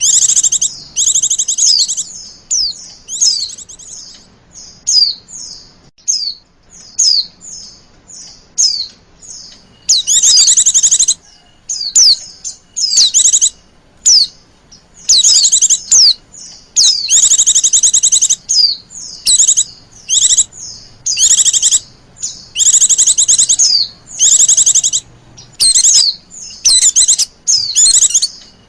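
Female white-eye (pleci) twittering: high, fast-trilled bursts about a second long alternating with short single chirps and brief pauses.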